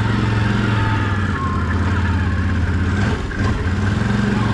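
Can-Am off-road vehicle's engine running steadily under way on a trail, easing off briefly a little past halfway through and then picking up again.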